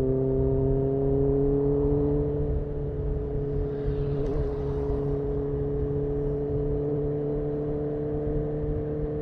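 2018 Honda CB1000R's inline-four engine running steadily under light throttle through a full-system Black Widow exhaust, its pitch creeping slowly upward. It gets a little quieter about two and a half seconds in.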